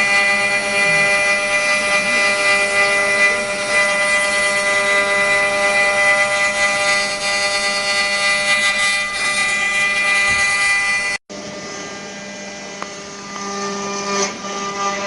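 Multi-spindle CNC wood router running, giving a steady high whine of many even tones. It cuts out for an instant about eleven seconds in and comes back quieter.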